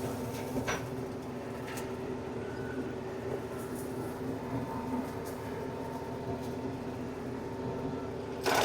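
TYM compact tractor running steadily under load with a PTO-driven flail mower cutting, a constant hum with a few light ticks. Near the end the noise suddenly gets much louder.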